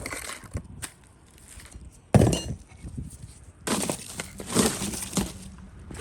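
Cracked glass crunching and clinking as a broken phone is worked on. There is a sharp knock about two seconds in, then rougher scraping and crunching in the last two seconds.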